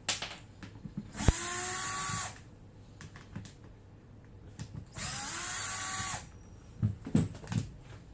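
Hitachi DB10DL 12 V cordless screwdriver running twice, about a second each time, backing out housing screws: each run starts with a short rising whine and then holds steady. Sharp clicks come at the start and as the second run begins, and a few light knocks near the end.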